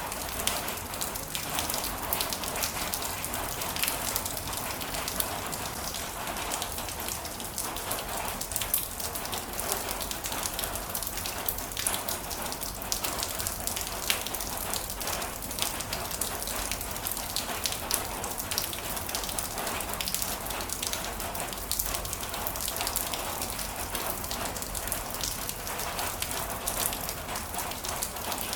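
Heavy rain falling steadily: a dense, even hiss dotted with many separate drop taps.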